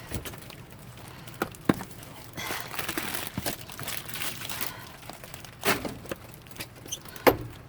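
Rummaging through wet cardboard boxes and packaged products in a dumpster: crinkling and rustling, with several sharp knocks as items are handled.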